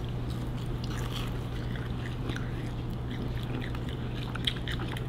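Quiet chewing and small mouth clicks of people eating biscuits, over a steady low hum.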